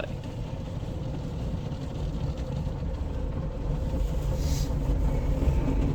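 PDQ ProTouch Tandem in-bay automatic car wash running, a steady low rumble heard from inside the car that grows slightly louder, with a brief faint hiss about four and a half seconds in.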